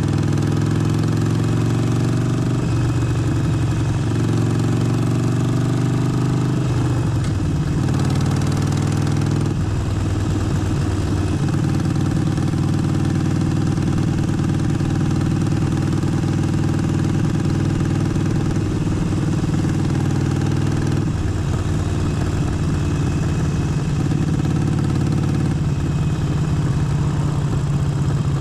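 Harley-Davidson Forty-Eight's air-cooled 1200 cc Evolution V-twin running, its pitch dropping and picking up again several times as the revs change.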